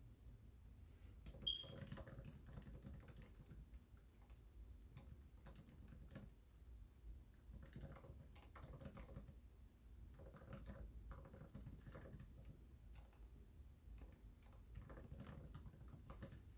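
Faint typing on a computer keyboard, irregular runs of key clicks. A brief high beep sounds about a second and a half in.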